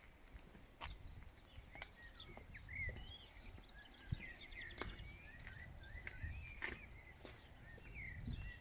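Small birds chirping and twittering in quick, short, varied calls, faint, over a low rumble, with a few scattered clicks.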